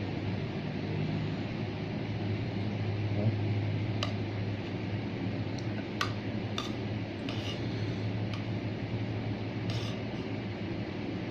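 Cutlery clinking against a plate several times during eating, over a steady low hum.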